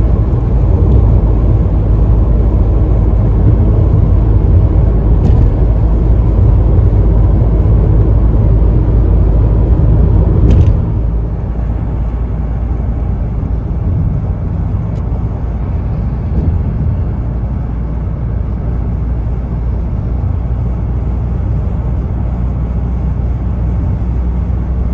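Steady low road and engine rumble of a car cruising at motorway speed; the rumble drops noticeably in level about ten seconds in.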